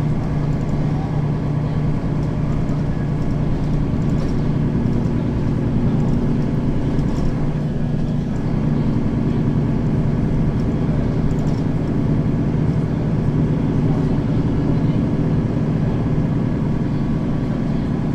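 Mercedes-Benz Citaro facelift city bus's diesel engine running steadily as the bus drives between stops, heard from inside the bus.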